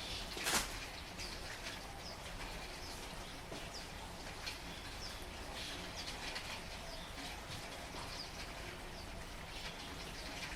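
Steady rain hissing, with small birds chirping short calls every second or so, and one sharp tap about half a second in.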